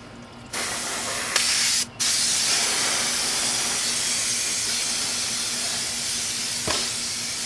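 Aerosol brake cleaner sprayed from the can to wash sanded rust off the wheel hub mount. A short spray comes first, then after a brief break a long continuous spray of about six seconds.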